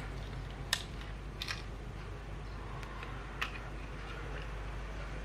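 A few sharp clicks from the controls of a Fujifilm X-T3 camera being worked: one about a second in, a quick pair just after, and another a little past three seconds. A low, steady hum runs underneath.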